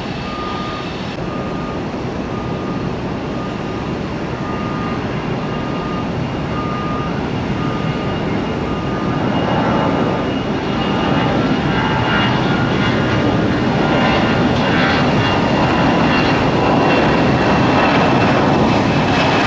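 Jet airliner engines with a steady high whine, growing steadily louder as the aircraft comes closer. A regular repeating beep sounds through the first half.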